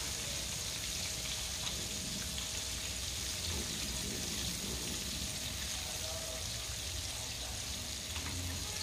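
Battered chicken pieces deep-frying in a pan of hot oil: a steady sizzle.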